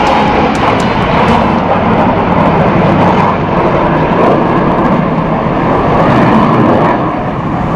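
Blue Angels F/A-18 Hornet jets passing overhead: a loud, steady jet roar.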